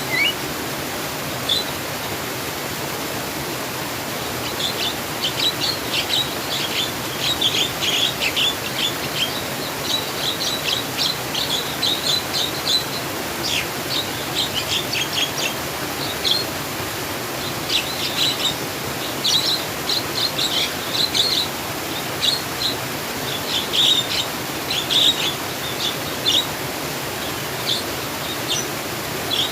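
Steady rush of flowing water under many small birds chirping: rapid runs of short, high chirps from about five seconds in, coming and going in clusters.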